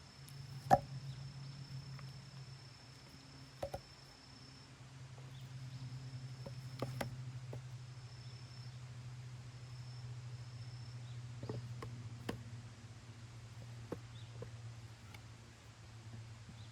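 Campfire giving a few scattered sharp pops, the loudest about a second in, over a steady low hum. A high, thin insect trill comes and goes through the first half.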